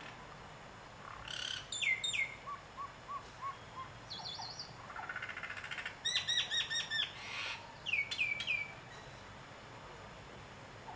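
Birds calling and singing in short phrases: a few quick down-slurred whistles, a run of five soft low whistles about two and a half seconds in, a fast series of five repeated notes about six seconds in, then three more down-slurred notes near eight seconds, over a faint steady hiss.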